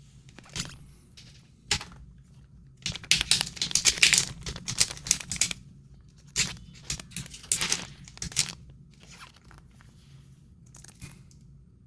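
A trading card pack's foil wrapper being torn open and crinkled, with the cards rustling, in uneven bursts that are loudest and densest in the middle.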